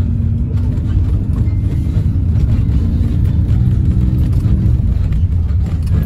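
Steady low rumble of a moving bus's engine and road noise, heard inside the passenger cabin, with a faint engine hum over it that fades about five seconds in.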